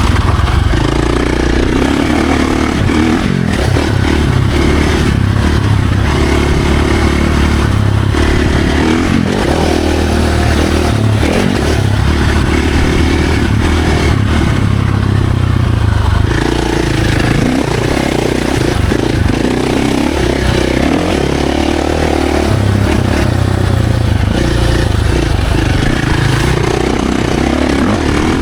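Dirt bike engine under hard riding, its pitch climbing and dropping again and again as the throttle opens and closes through the gears.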